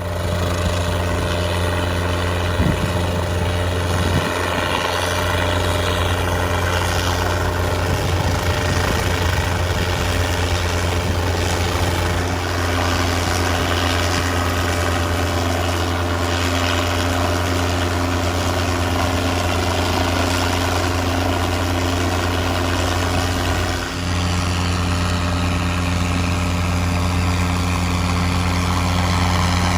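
Helicopter running steadily, a constant low engine and rotor drone with a brief dip about 24 seconds in.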